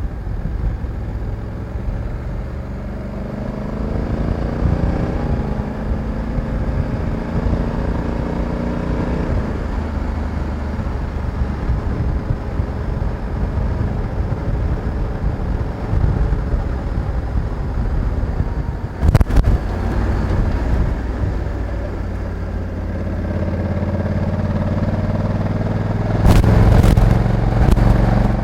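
Honda Africa Twin 1100's parallel-twin engine under way, its pitch climbing for several seconds near the start and again toward the end. Brief loud crackles cut in about 19 seconds in and near the end.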